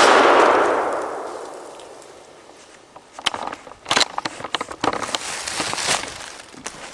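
A single shotgun blast at a turkey, echoing away over about two seconds. From about three seconds in come repeated crackling and rustling sounds, as of movement through dry leaves and brush.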